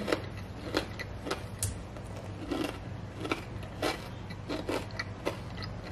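A person chewing a mouthful of cracker topped with cheese, salami and grape: short crisp crunches about twice a second.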